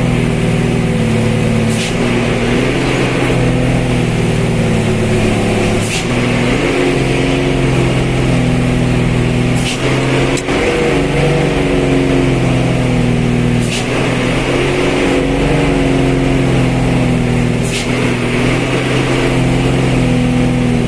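A motor vehicle's engine running steadily and loud, its pitch drifting slightly up and down. Faint short clicks come about every four seconds.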